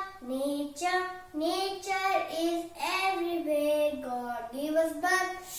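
A child singing, holding notes that step up and down in pitch.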